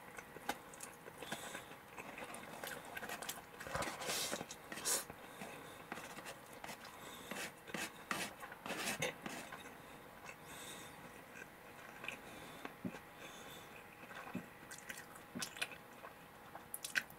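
A person chewing fried chicken and rice close to the microphone, with irregular small crunches and clicks.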